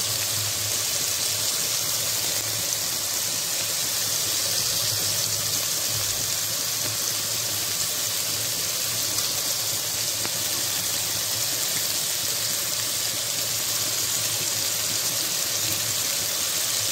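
Steady, even sizzling of a tomato, onion and green chilli masala cooking in oil in a kadai, with raw chela fish spread on top.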